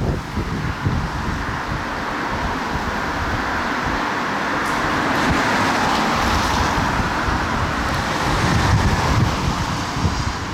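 Strong gusty wind buffeting the microphone with an uneven low rumble, over a rushing hiss of wind through foliage that swells through the second half.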